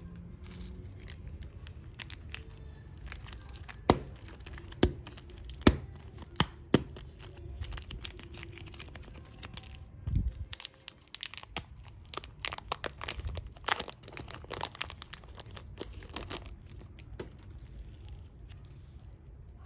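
Plastic packaging of super clay being torn open and crinkled. There are several sharp snaps a few seconds in, then a long stretch of dense crackling.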